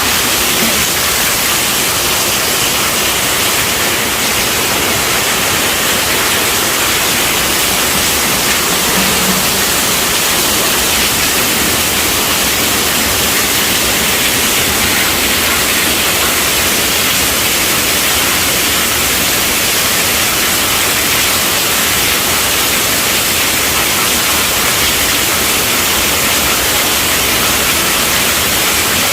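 Heavy rain falling on a tent roof, a loud, steady hiss with no breaks.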